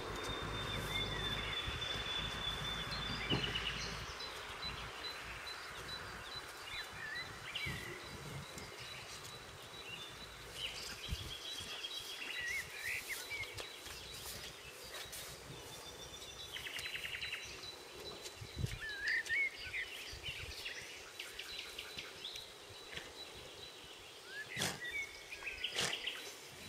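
Outdoor pasture ambience with small birds chirping now and then in short rising and falling calls, over a thin, steady high tone. A few sharp clicks near the end.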